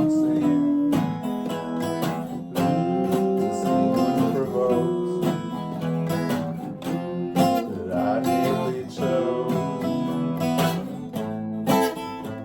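Acoustic guitar music, strummed and picked, with some notes gliding up and down in pitch.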